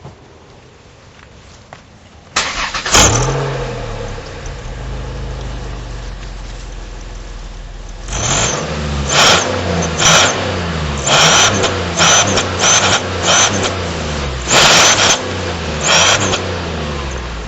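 A car engine starts about two seconds in and idles. From about eight seconds it is revved in a series of short blips, each rising and falling, and each blip brings a loud hissing whistle from a turbo whistler, an exhaust add-on that imitates a turbo's spool and blow-off.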